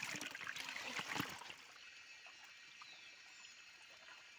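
Shallow stream water trickling, with louder splashing and knocks in the first second and a half as the water is stirred, then a faint steady trickle.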